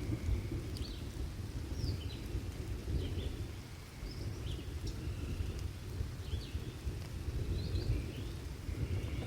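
Thunderstorm ambience: a continuous low rumble of thunder under rain, with short high chirps repeating about once a second.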